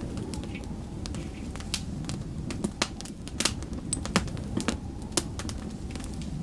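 Wood fire in a fireplace crackling and popping, with irregular sharp snaps, a few louder than the rest, over a low steady rumble.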